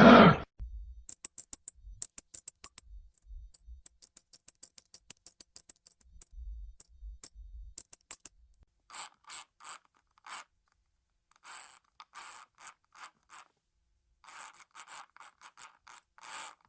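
A quick run of sharp clicks and taps, some with a dull thud, then short scratchy scraping sounds repeated in groups in the second half.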